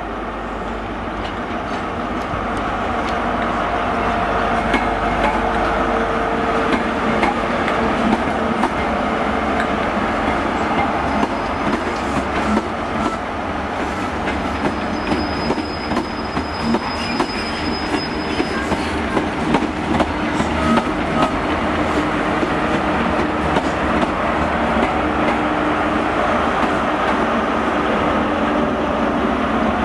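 GWR Class 43 High Speed Train (InterCity 125) running through the station close by. The power cars' diesel engines grow louder over the first few seconds, the wheels click steadily over rail joints as the coaches pass, and there is a brief faint high wheel squeal about halfway through.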